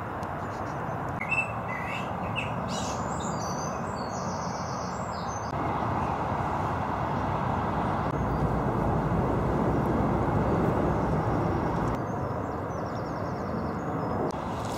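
Small birds chirping in two spells, over the first few seconds and again near the end, above a steady rushing background noise.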